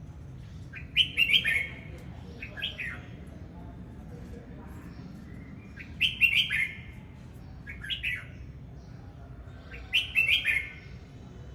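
Red-whiskered bulbul singing: three short warbled phrases about four seconds apart, each followed by a shorter second phrase, over a low steady background hum.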